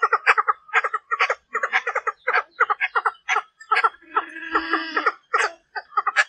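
Female Chinese francolin (đa đa) calling, a decoy call used to provoke males: a rapid run of short clucking notes, about five a second, with one longer held note a little past the middle.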